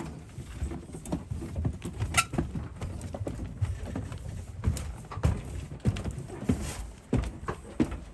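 Footsteps and small knocks of people walking through the cabin of a Boeing 747, irregular thuds a few times a second.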